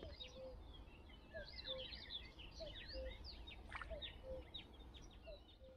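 Faint chorus of several small birds chirping and calling, with a short low note repeating about once a second among the higher chirps.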